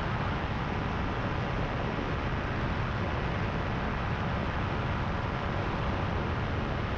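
Paramotor engine and propeller running steadily in flight, mixed with wind rush over the microphone.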